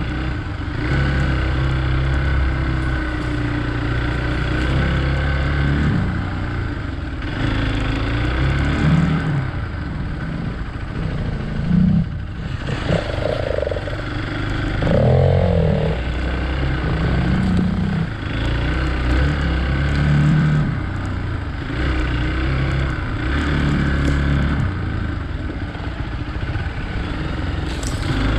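Hero Xpulse 200 single-cylinder motorcycle engine ridden off-road, its revs rising and falling as the throttle opens and closes, over wind noise with an occasional clatter.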